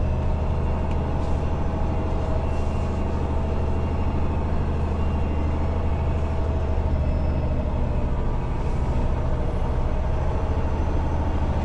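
Semi-truck's diesel engine running at a steady low drone under load, with road and cab noise, heard from inside the cab while the rig moves slowly.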